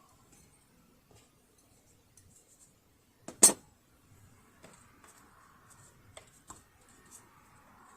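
Small hard parts and tools being handled while working on a sewing machine. There is one sharp clack about three and a half seconds in, then a few lighter clicks and faint rubbing.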